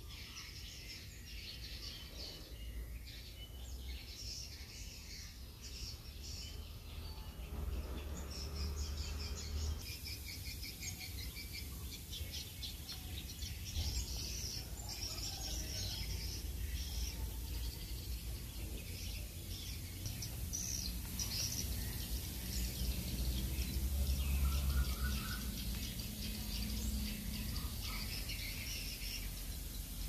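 Birds chirping and twittering, many short calls throughout, over a steady low rumble.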